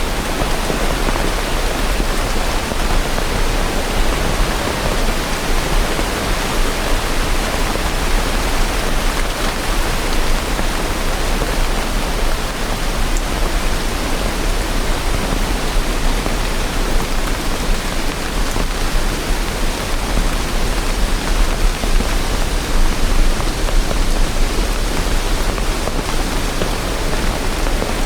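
Steady rain, an even, unbroken hiss with no separate drops or thunder standing out.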